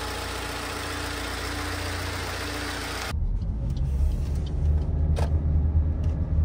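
A Toyota car's engine idling with the hood open, a steady hiss over a low hum. About three seconds in it gives way to the louder, deep rumble of the car driving, heard from inside the cabin.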